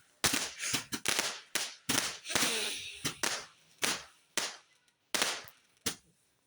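Consumer fireworks going off in a rapid run of about a dozen sharp bangs, irregularly spaced about two a second, with a brief crackle about two and a half seconds in, until the last bang near the end.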